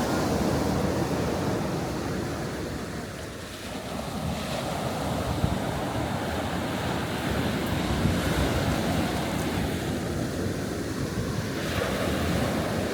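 Sea waves washing onto the beach at high tide, a steady surf rush, with wind buffeting the microphone.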